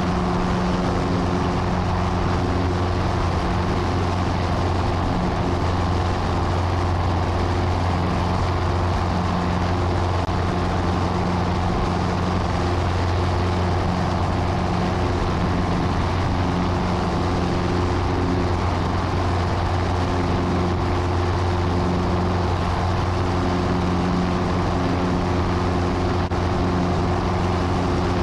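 Piper Cherokee's single piston engine and propeller droning steadily at flight power, heard from inside the cockpit.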